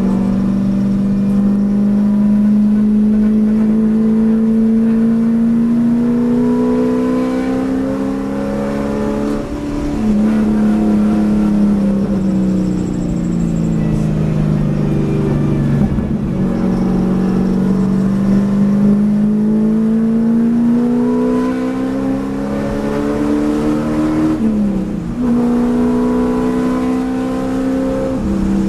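Race car engine heard from inside the cabin, rising in pitch under acceleration. The pitch drops sharply at a gear change about ten seconds in and winds down under braking. It then climbs again to another quick gear change near the end.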